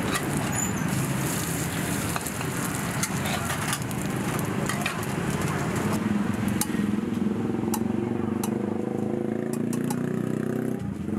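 Thai omelette eggs sizzling as they fry in hot oil in a wok, with metal clinks of a spatula. About halfway through the sizzle falls away, leaving a few sharp metal clinks of a spoon against steel bowls over a low steady hum.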